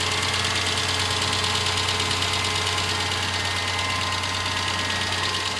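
A 1998 Ford Ranger's 4.0 litre V6 running steadily with a steady chopping, ticking knock. The cause is unknown: it could come from the top, bottom or middle of the engine.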